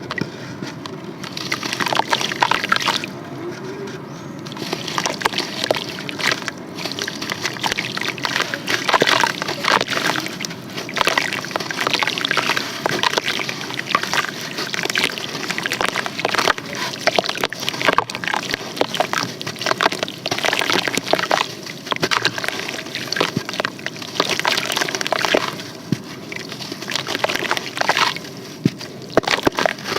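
Sand and charcoal crumbling wet in water: continuous squishing and sloshing with many small crackles, easing off briefly a few seconds in and again near the end.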